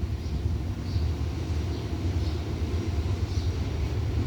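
Steady low rumble of a train passing, with no horn sounding.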